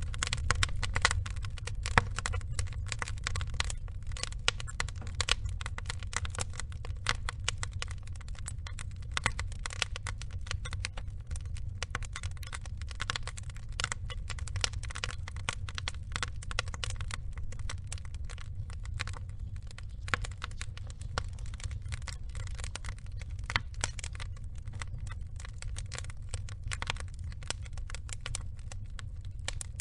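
Burning wood logs crackling: many irregular small snaps and pops over a steady low rumble of the fire.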